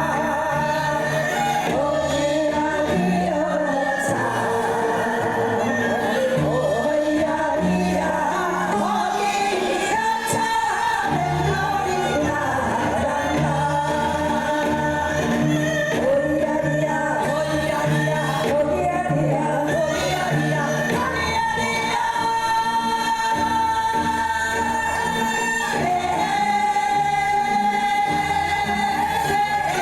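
A song performed live: a singer holding long, gliding notes over instrumental accompaniment with a stepping bass line.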